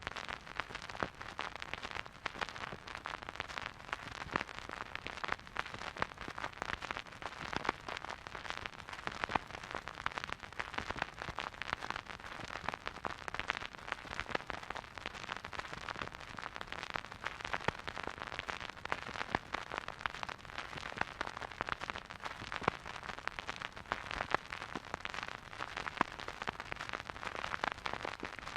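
Vinyl record crackle from a stylus running in a silent groove: dense, continuous surface noise with many small pops and clicks, steady throughout.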